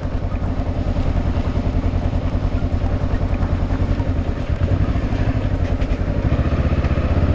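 Honda CB500X parallel-twin motorcycle engine running steadily under way at low, even revs, getting a little louder near the end.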